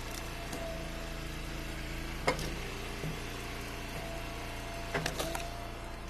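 Eastonmade hydraulic wood splitter's engine running steadily, with a sharp knock about two seconds in and a few more knocks near the end as firewood rounds are split and handled.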